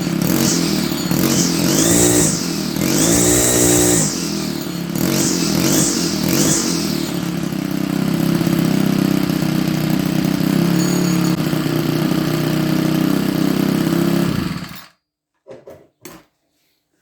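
Petrol string trimmer engine running through a homemade stainless steel muffler. It is revved up and down several times, then settles to a steady idle and cuts off suddenly about fifteen seconds in. A few faint knocks follow.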